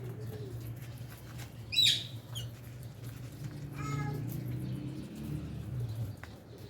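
Lovebirds in an aviary calling: one loud, shrill shriek about two seconds in and a shorter, lower call about four seconds in, over a steady low hum.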